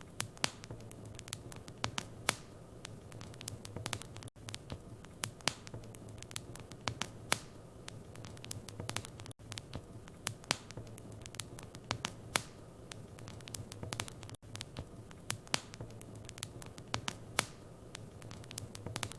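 Wood fire in a fireplace crackling, with many irregular sharp pops over a steady low hum. Brief dropouts about every five seconds.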